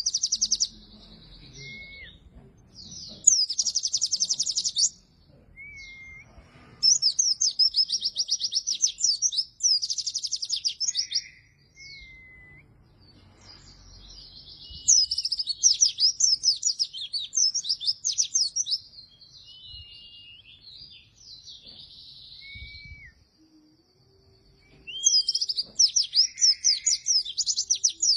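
A pleci (white-eye) singing vigorously: bursts of rapid, high trilling song lasting a second or two, repeated again and again, with short thin whistled notes between them.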